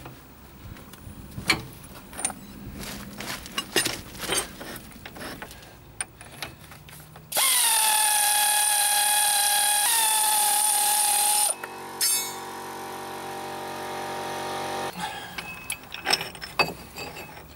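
Tool clicks and knocks while the threaded spindle of a wheel bearing press tool is screwed in. Then a power tool runs with a loud, steady whine for about four seconds, and a second, lower whine grows louder for about three seconds while the bearing is driven into the hub carrier.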